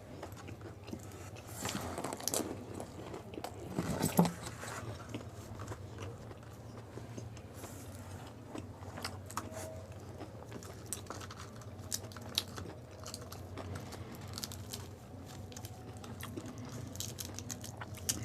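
A person chewing and crunching gol gappay (pani puri), the crisp fried puri shells crackling in the mouth in many small irregular clicks, with one louder bite about four seconds in.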